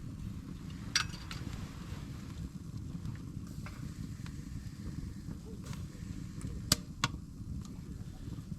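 Wood fire crackling, with a few sharp pops (one about a second in, two close together near the end) over a steady low rumble.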